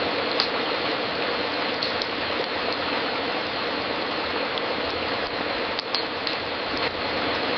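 Fireplace fire crackling: a steady hiss with scattered sharp pops.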